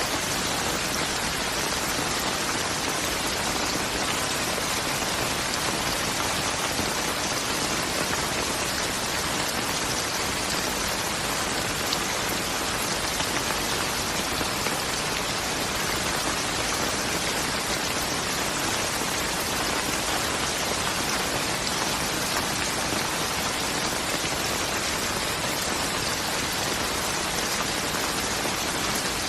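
Steady rain falling, an even dense hiss of drops with no pauses.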